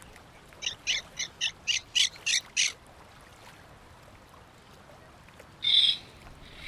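A bird calls a quick series of about eight short, high notes, roughly four a second, then a single harsher call near the end.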